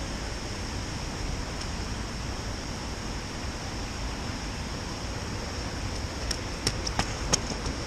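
Steady hiss of falling rain outdoors, with a low rumble underneath. Several sharp ticks come in near the end.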